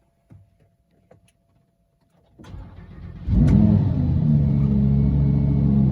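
Lamborghini Huracán LP580's 5.2-litre V10 being started: a few faint clicks, then the starter cranks for about a second and the engine fires with a sudden loud flare about three seconds in, settling into a steady, loud idle.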